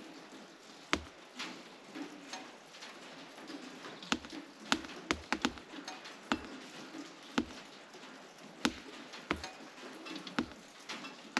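Meltwater dripping from thawing frost on the shed's roof sheeting, which has no anti-drip lining: about a dozen sharp, irregularly spaced drips landing on hard surfaces.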